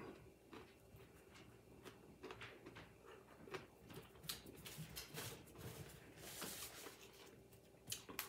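Faint chewing of crisp fried salt cod, with scattered small crackles and clicks, over a steady low hum.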